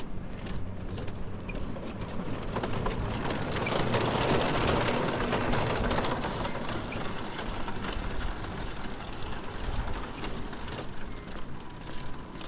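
Footsteps on a paved seaside promenade, with a swelling rush of noise that builds and fades in the middle. A few faint high thin tones come near the end.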